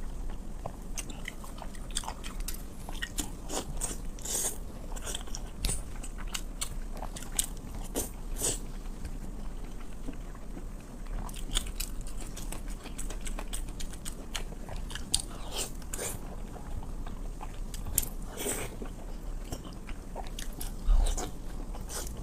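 Close-miked eating: a person biting and chewing red-braised pork, with many irregular short wet clicks from the mouth. A single louder knock comes near the end.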